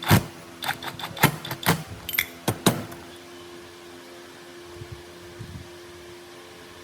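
A quick, irregular run of sharp knocks and clicks over the first three seconds, then a steady low hum with a couple of faint knocks.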